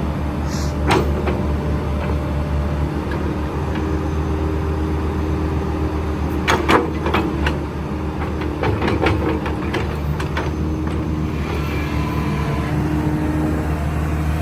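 Kobelco SK135SR crawler excavator's diesel engine running steadily as the machine works. Sharp knocks and clanks come about a second in and in a cluster from about six to ten seconds in.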